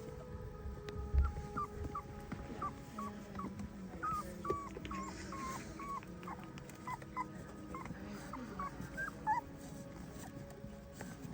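German shepherd puppy whining and howling in a string of short, high-pitched whimpers, about two or three a second, that die away near the end.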